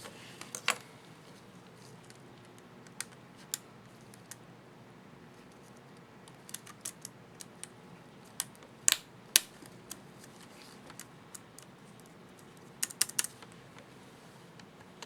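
Sharp plastic clicks from an HP ProBook 4540s laptop keyboard as the numpad plus keycap is handled, snapped onto its clips and pressed. They come as scattered single clicks and short clusters, with a quick run of three near the end.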